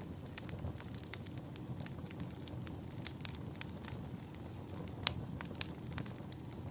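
Wood fire crackling: a low steady rumble with irregular sharp pops and snaps, one louder pop about five seconds in.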